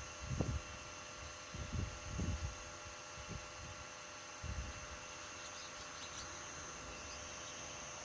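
Hitachi Yutaki 6hp air-source heat pump running at full load, its inverter-controlled compressor and fan giving a steady hum with several fixed high whining tones. Low rumbling gusts come and go over the first few seconds.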